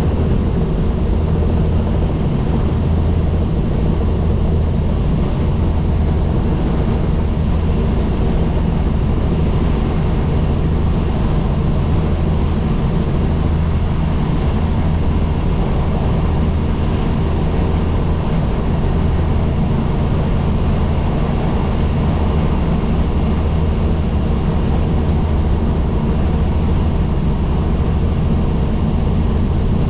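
Helicopter in flight: the rotor and engine make a steady, deep drone with no change throughout.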